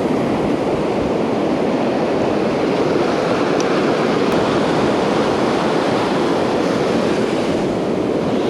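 Ocean surf breaking on a beach, a steady loud wash of noise, with wind buffeting the microphone.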